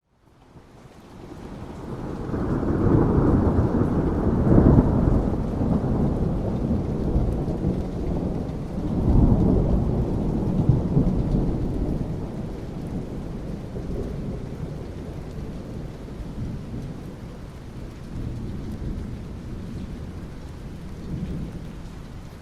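Thunder rumbling over steady rain. The rumble swells in over the first few seconds, peaks twice, around four to five seconds in and again around nine to eleven, then dies down to the rain.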